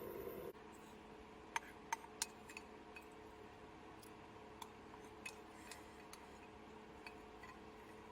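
Faint, irregular light clicks and clinks, about a dozen over several seconds and strongest around two seconds in, over a faint steady hum. A louder steady sound cuts off about half a second in.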